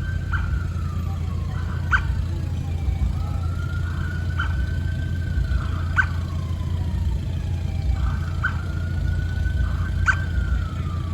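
Emergency vehicle siren wailing, rising and falling slowly in a cycle of about four seconds, over a steady low rumble, with short clicks every couple of seconds.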